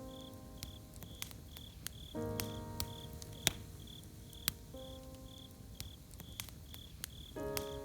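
Campfire crackling with scattered sharp pops, over a cricket chirping in a steady pulse. Soft sustained music chords change every two to three seconds.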